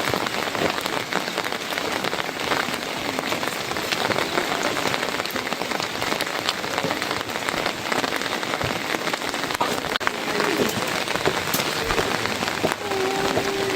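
Heavy rain falling: a steady hiss with many individual drops ticking close by.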